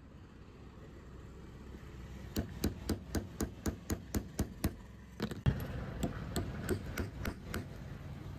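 A run of quick hammer taps, about four a second, followed by one heavier blow and more taps. They are knocking a jammed ceiling-fan bearing out of its seat, turning it round between strikes.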